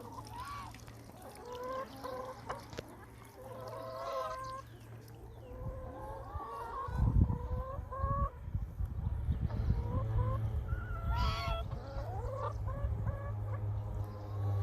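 A flock of hens clucking and calling with short, repeated calls, over a low steady hum. A burst of low rumbling about seven seconds in is the loudest part.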